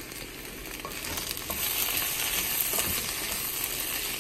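Sliced ivy gourd sizzling in oil in a nonstick pan while a wooden spatula stirs it, the stir-fry about three-quarters cooked. The sizzle grows louder about a second and a half in.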